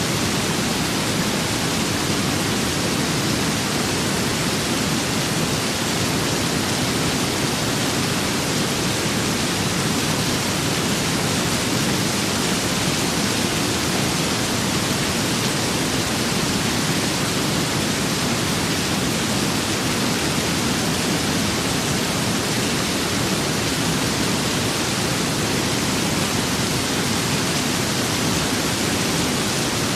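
Steady rain and wind ambience: an even, unbroken hiss with no single drops or gusts standing out.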